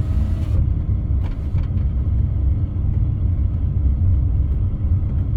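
Car cabin noise while driving: a steady low rumble of engine and tyres, with a couple of faint clicks a little over a second in.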